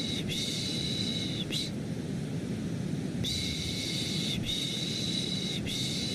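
Repeated soothing 'shhh' shushing for a baby, in long strokes of about a second each with short breaths between, over a steady low white-noise hum.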